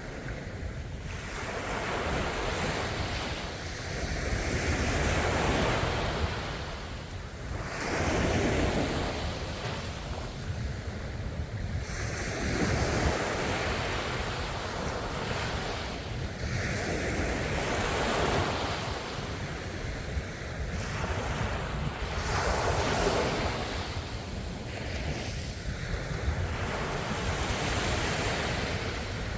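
Ocean waves breaking and washing on the shore, the surf rising and falling in swells every few seconds, with a low rumble of wind on the microphone.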